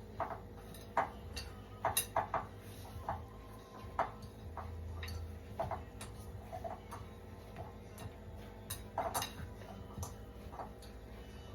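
A mixing bowl knocking and clicking irregularly against the counter while flour and water are kneaded by hand into dumpling dough.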